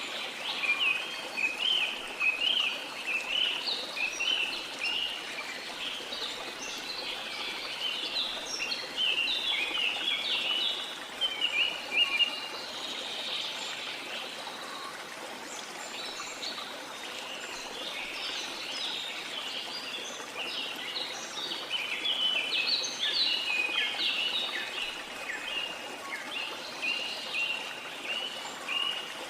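Steady rushing water of a waterfall, with many tropical forest birds chirping and singing over it in quick short calls.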